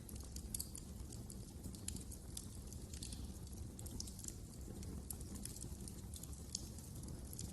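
Wood fire crackling: irregular sharp snaps and pops, several a second, over a low steady rumble.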